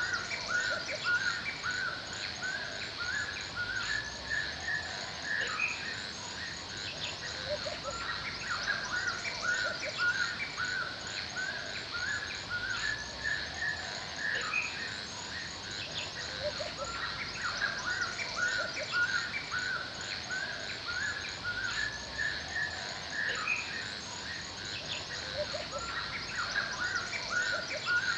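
Forest ambience: birds chirping in repeated bouts of short notes, over a steady high buzz with a fast, even ticking above it.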